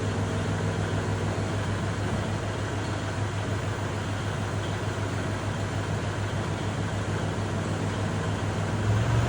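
Kubota tractor's diesel engine running steadily at a low, even pitch, getting a little louder near the end.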